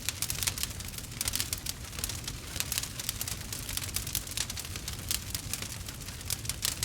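Wood fire burning with a steady low rumble and a dense run of small crackles and pops from the burning wood.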